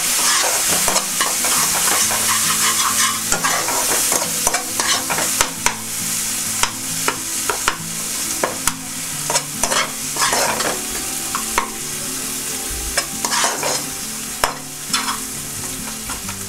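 Onion and spice masala frying in oil in a kadai, sizzling while a slotted spatula stirs it, with frequent irregular scrapes and taps against the pan. The sizzle eases off gradually.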